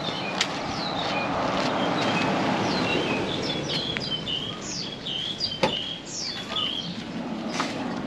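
Birds chirping and calling in many short, high notes that quickly rise and fall, over a steady low background noise. A few sharp clicks cut through, the loudest about five and a half seconds in.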